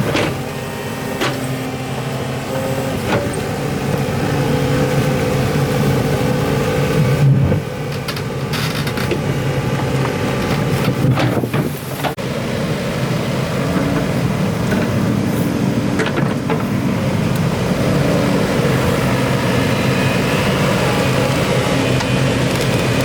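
Excavator's diesel engine running steadily, its pitch rising and falling under load, with a few sharp knocks and clanks from the machine working.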